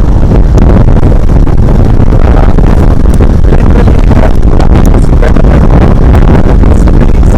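Loud, steady wind buffeting the microphone over the road and engine noise of a vehicle moving along a highway.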